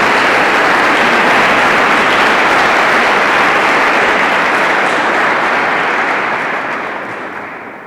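Audience applauding, steady clapping that dies away over the last couple of seconds.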